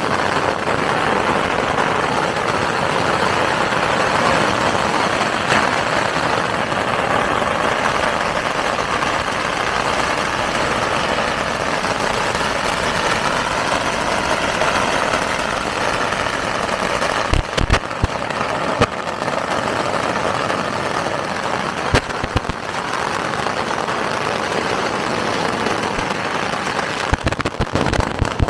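Firecracker salute: a long, dense barrage of firecrackers crackling without pause, merging into a continuous roar, with a few sharper bangs standing out in the second half.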